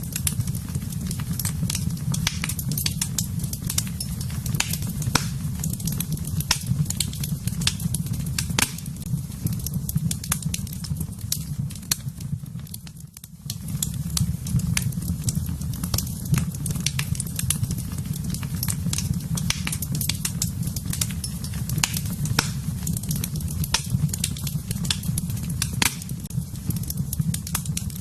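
Wood fire crackling, with many sharp pops and snaps over a steady low rumble of the flames; the sound briefly drops away about halfway through.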